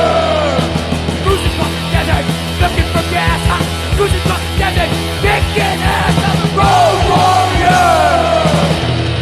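Hardcore punk band playing an instrumental passage of a 1984 demo recording: distorted guitar, bass and fast drums, with falling sliding tones near the start and again about seven seconds in.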